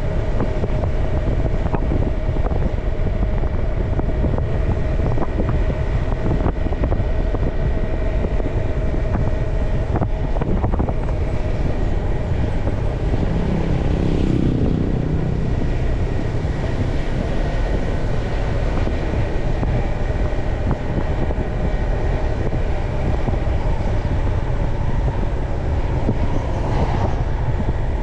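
A motorbike being ridden, its engine and road noise running steadily and loud. A steady whine fades out about ten seconds in, and a louder rush swells and passes about halfway through.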